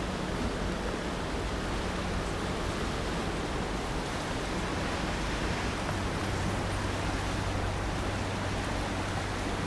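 Steady rushing of a swollen river flowing fast under a bridge, with a low steady hum joining about halfway through.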